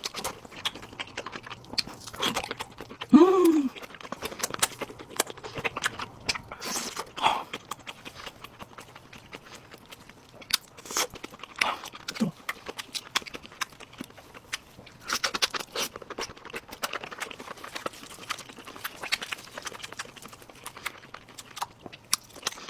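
Close-miked eating: chewing with wet mouth clicks and crunchy bites, and a short hum of enjoyment about three seconds in.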